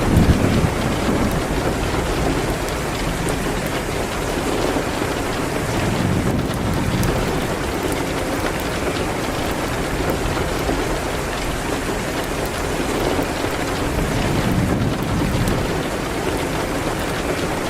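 Steady rain hitting a window, with a wood fire crackling in faint ticks. Low rumbles swell up near the start and twice more.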